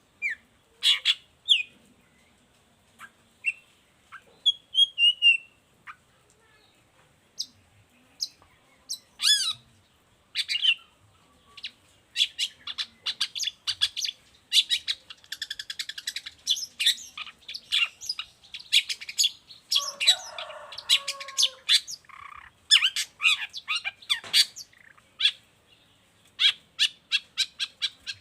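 Long-tailed shrike singing: sharp, high, quick notes, scattered at first and then in dense rapid runs from about halfway through, with a harsher, lower chattering phrase around twenty seconds in.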